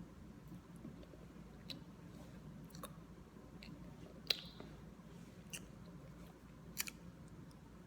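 Faint, wet mouth clicks and smacks of someone chewing a bite of cheese scone, about six sharp ticks spread out, the loudest a little past halfway, over a steady low room hum.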